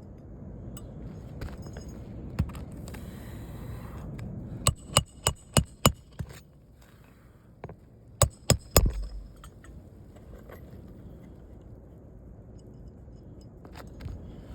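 A hammer striking a roof snake to drive roofing nails under a shingle, with sharp metallic clinks. There is a quick run of about five strikes about five seconds in, then a few single strikes, and three more near the nine-second mark.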